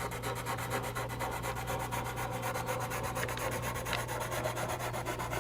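A 4B charcoal pencil scratching across textured charcoal paper in rapid, even back-and-forth shading strokes.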